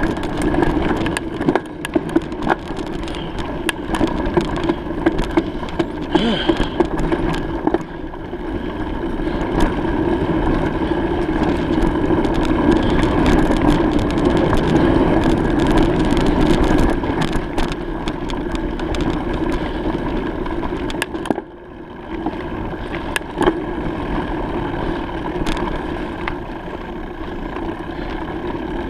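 Bicycle in motion: a steady rumble of tyres and air rushing past, with many small rattling clicks, dipping briefly about two-thirds of the way through.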